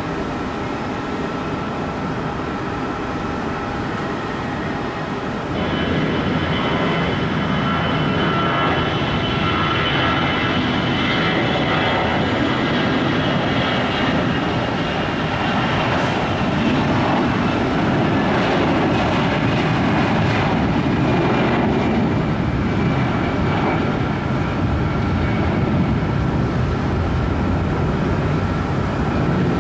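Jet aircraft engines running with a steady roar and high whine, growing louder about five and a half seconds in and holding there.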